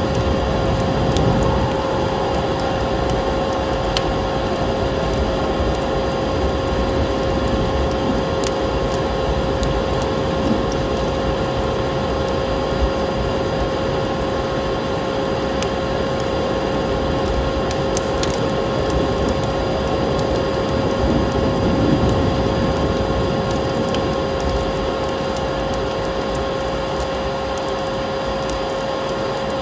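Steady vacuum cleaner hum, a constant droning tone over a noisy whoosh, mixed with the scattered crackles and pops of a wood fire.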